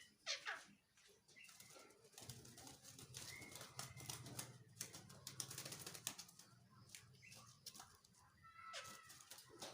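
Faint starling sounds: a short call falling in pitch just after the start, then scattered light clicks and taps, with brief faint whistles partway through and near the end.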